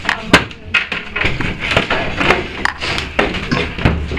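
Footsteps of several people walking over a debris-strewn floor: irregular taps and knocks, with one sharp knock about a third of a second in.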